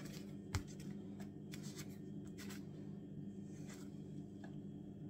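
A paper postcard being handled: a light knock about half a second in, then a few faint rustles and clicks, over a steady low hum.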